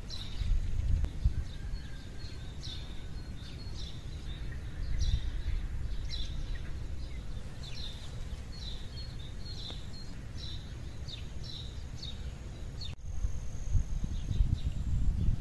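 Small birds chirping in short, repeated high calls over a low, noisy rumble. About thirteen seconds in the sound cuts, and a steady high tone joins the chirping while the rumble grows louder.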